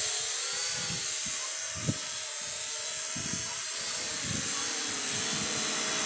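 Promark GPS Shadow quadcopter's motors and propellers humming steadily as it flies, with gusts of wind buffeting the microphone. A brief thump about two seconds in is the loudest moment.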